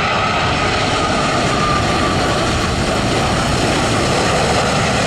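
Jet airliner passing low overhead on final approach: a loud, steady engine roar with a thin whine that falls slightly in pitch as it goes over.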